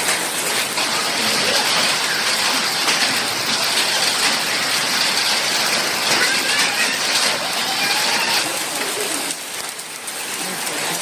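Hailstorm: hail and rain pelting down, a dense, steady patter of countless small impacts. It eases briefly near the end, then picks up again.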